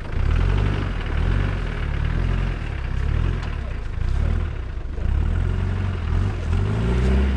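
Off-road 4x4's engine running at low revs under load as the vehicle crawls up a steep, overgrown slope, its pitch wavering, then rising near the end as the driver gives it more throttle.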